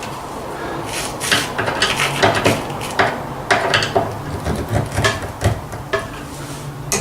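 Hand-tool work on a wooden worktop: an irregular string of metallic clicks, taps and knocks, densest through the middle, over a faint low steady hum.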